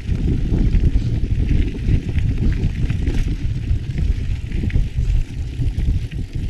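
Mountain bike riding over a rough trail: a heavy, uneven low rumble with scattered light ticks and rattles from the bike.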